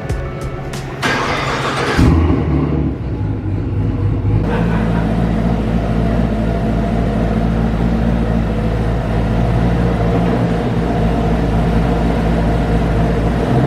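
Camaro ZL1's twin-turbo V8 engine running: a loud surge about two seconds in, then settling into a steady, low idle.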